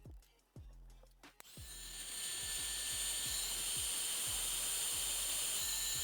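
A small power tool runs with a steady high-pitched whine for about five seconds, starting abruptly about a second and a half in, over background music with a regular beat.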